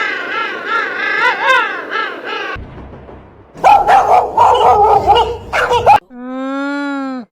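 Animal calls from several different clips spliced in quick succession: high wavering whining, yelping calls, then a louder, rougher stretch of calls, then one steady, lower held call that cuts off abruptly.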